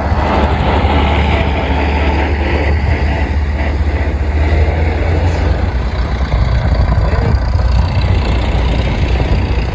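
Vintage tractor's diesel engine running steadily under way, a heavy constant low rumble with a rattling noise spread above it.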